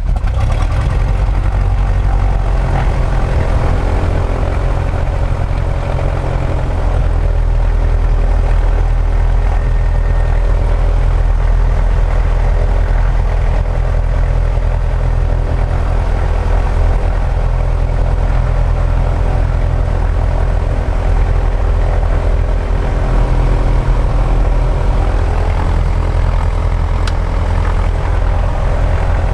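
Super Decathlon's piston engine and propeller running steadily at idle just after starting.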